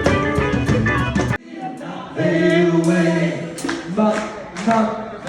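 Live rock band playing with drums and guitar, then stopping abruptly about a second and a half in, leaving several voices singing held notes in harmony without instruments.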